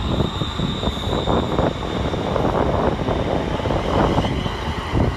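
A ScotRail Class 318 electric multiple unit running along the platform, its wheels rumbling unevenly over the track, with a thin steady high whine running through it.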